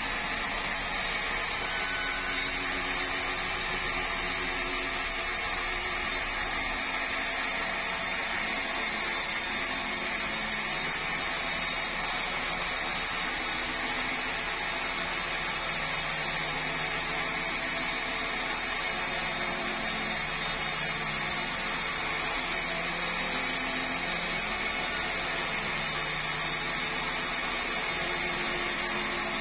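Sawmill saw machinery running steadily, a continuous machine noise with a low hum that wavers slightly in pitch.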